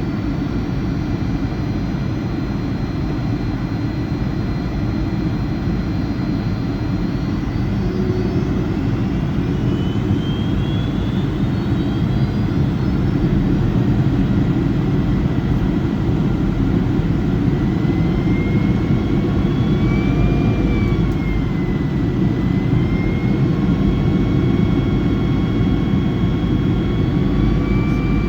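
Boeing 757-200's jet engines heard from inside the cabin on approach: a steady deep roar with whining tones above it. The whine rises and shifts pitch several times, first about a third of the way in and again past the middle, as engine thrust is adjusted, then settles on new steady pitches near the end.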